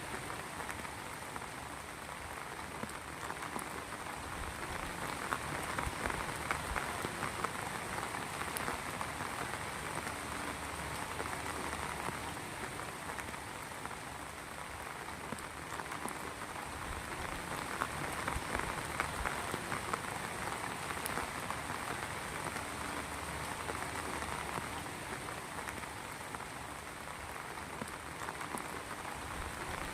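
Heavy rain falling steadily on a hard surface, a dense patter of drops that swells and eases slightly every several seconds.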